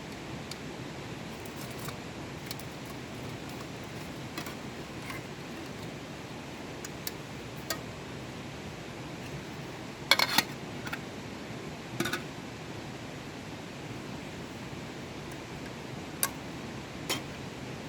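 Scattered small clinks and knocks of hard objects being handled, over a steady hiss; the loudest is a short rattling cluster about ten seconds in.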